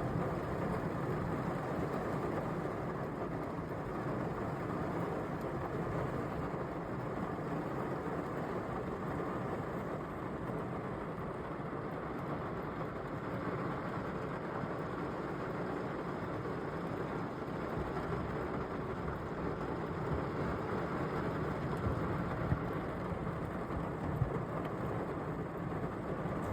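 Heavy rain falling steadily, with a few sharp clicks near the end.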